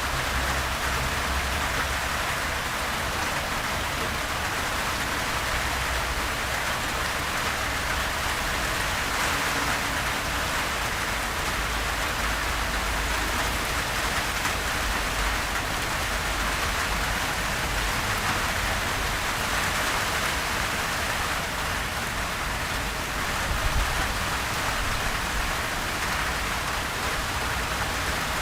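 Steady, gentle rain falling on a surface, an even patter with no thunder.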